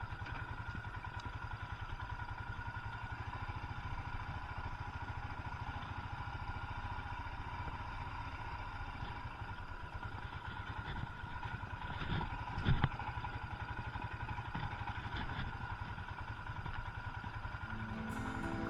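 Royal Enfield Himalayan's 411 cc single-cylinder engine running steadily, with a brief knock about two-thirds of the way through. Acoustic guitar music comes in right at the end.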